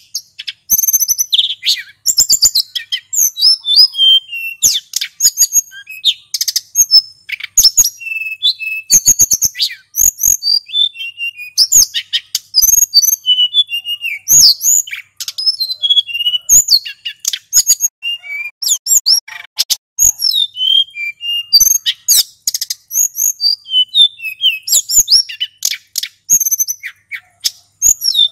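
Male sulingan gunung (hill blue flycatcher) singing a long, unbroken run of quick, varied, sweet chirps and sliding whistled notes, the full continuous song that bird keepers call ngeroll.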